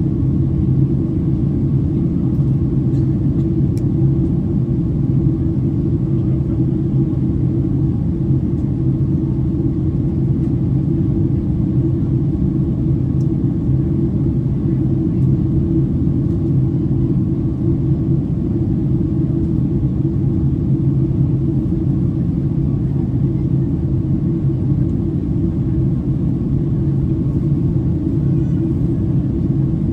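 Steady cabin roar of a Boeing 767-300ER in flight after take-off, heard from a window seat in economy: an even low rumble with a constant hum underneath.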